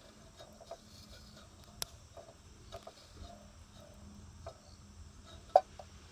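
Wood campfire crackling, with scattered small snaps and pops; one much louder sharp pop comes near the end.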